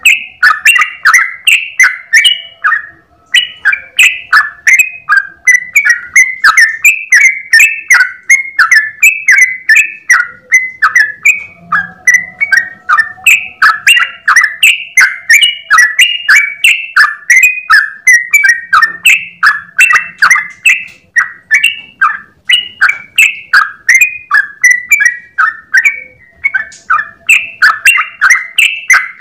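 Yellow-vented bulbul (trucukan) singing a long unbroken 'ropel' run of short, rapid chirping notes, about two a second, without a pause for breath.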